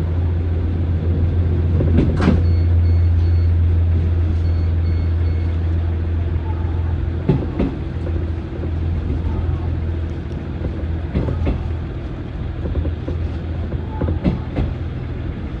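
A locomotive-hauled old-type passenger coach running along the track, heard from inside at the window: a steady low rumble, with the wheels clacking over rail joints in quick pairs every few seconds.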